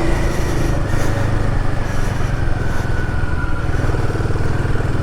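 Royal Enfield Himalayan 450's single-cylinder engine running steadily under way, its pitch easing slowly lower.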